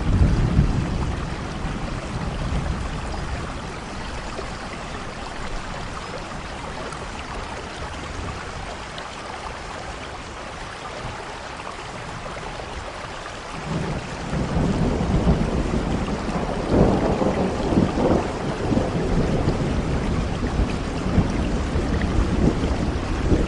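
Heavy rain falling steadily, with rolling thunder: a rumble at the start dies away within a few seconds, then a louder long roll of thunder builds about halfway through and rumbles on to the end.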